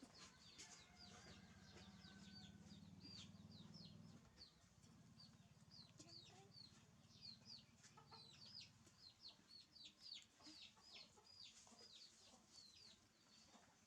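Faint, rapid peeping of chicks: short high-pitched chirps, each falling in pitch, several a second. A low hum sits beneath them and fades out about nine seconds in.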